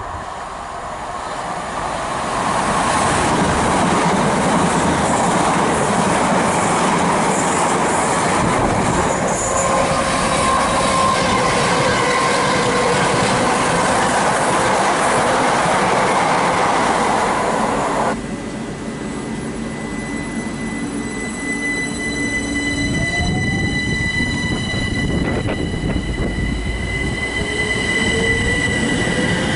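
An electric passenger train runs through the station close by, a loud, steady wheel-and-rail running noise that builds over the first few seconds. After an abrupt change about two-thirds of the way in, a Class 379 Stansted Express electric multiple unit is heard at the platform with steady high electrical whines, and near the end its traction motors whine with rising pitch as it starts to pull away.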